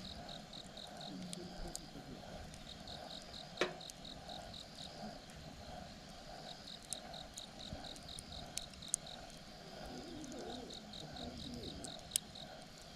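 Campfire crackling, with a few sharp pops (the loudest about three and a half seconds in and near the end), over insects chirping in repeated trains of about five quick pulses a second.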